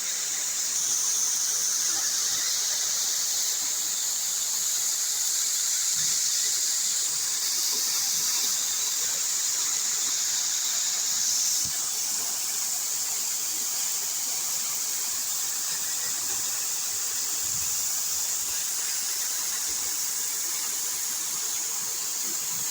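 Waterfall rushing: a steady, unbroken hiss of falling water, strongest in the high register.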